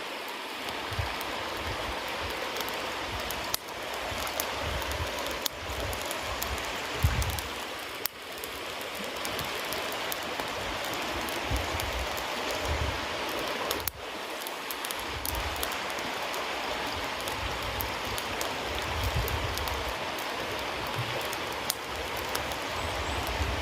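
Campfire of damp cedar leaves and wet firewood burning: a steady hiss with many small crackles and pops scattered through it, a sign of wet fuel steaming as it burns.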